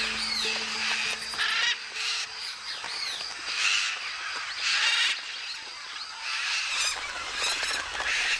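A flock of parrots giving harsh, overlapping squawks, loud calls following one another every second or so, with fainter chatter between them.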